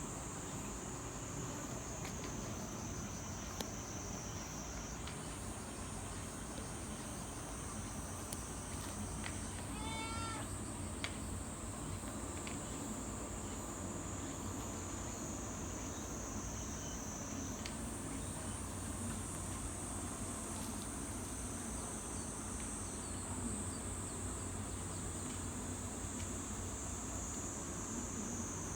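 Insects trilling in a steady, high-pitched chorus whose pitch steps up and down every few seconds, with a single short cat meow about ten seconds in.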